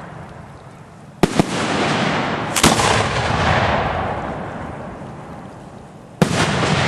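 Display firework shells going off: two sharp reports close together about a second in, another near three seconds and one more about six seconds in. Each report trails off into a long, fading echo.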